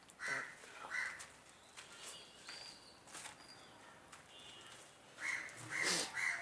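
Crows cawing: two caws near the start, then a quick run of caws in the last second or so. A few sharp clicks and a brief high tone come in between.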